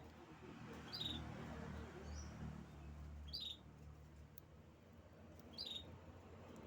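A canary giving short chirps, three of them about two seconds apart, faint over a low steady hum.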